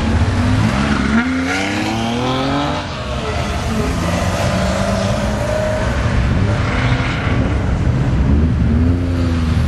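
Historic saloon race car's engine accelerating away, its note climbing in pitch and dropping back at each gear change, three climbs in all.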